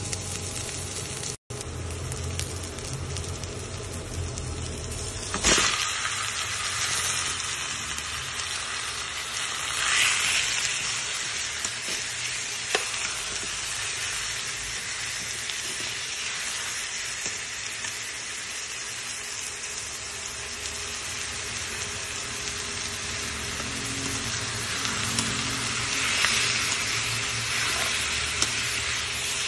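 Onion, garlic and chili peppers sizzling in hot oil in a pan, then raw chicken pieces frying and being stirred with a spatula. The sizzle flares sharply about five seconds in and swells again around ten seconds and near the end as the food is turned.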